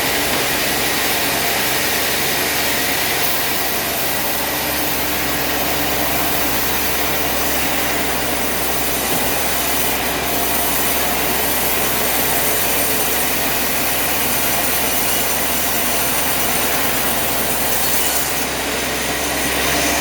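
Sawmill saw running steadily while cutting through a log, a dense even noise that holds at one level without breaking off.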